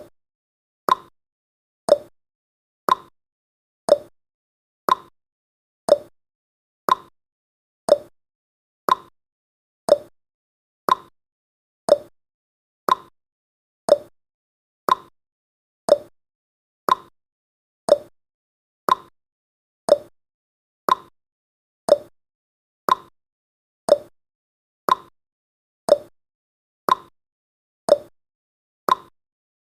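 Countdown timer's clock-tick sound effect: one sharp tick every second, each dying away quickly, about thirty in all.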